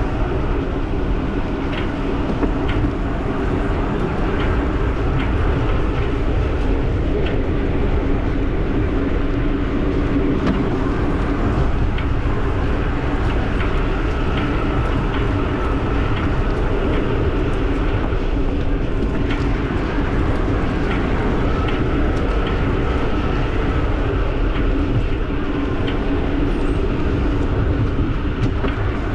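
Giant e-bike riding along, with wind and tyre rumble and a regular tick about once a second, an unexplained ticking that the rider is trying to identify.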